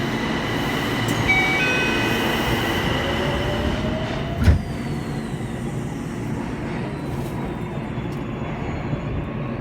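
Yokohama Municipal Subway Blue Line train running at speed, with a steady rumble of wheels on rail and motor noise. A motor whine rises in pitch for a moment, and a single sharp knock comes about halfway through.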